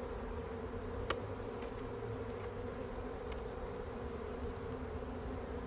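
Honey bees buzzing steadily around an open hive as its frames are inspected, with a single sharp click about a second in.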